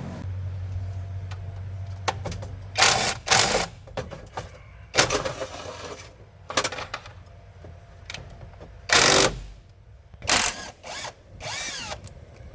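A series of short bursts from a power tool, about eight of them, each well under a second except a longer one two-thirds of the way through.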